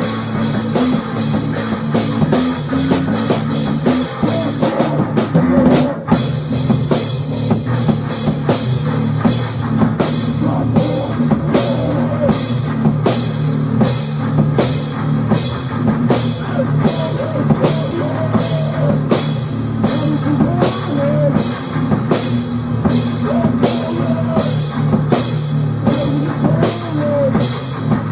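Rock music played by a band with a drum kit, keeping a steady beat of about two hits a second; it breaks off briefly about six seconds in.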